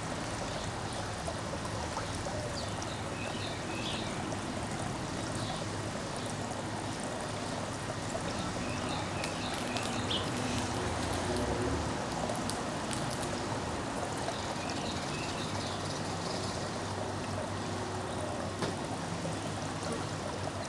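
Steady rushing background noise, with a few faint bird chirps now and then.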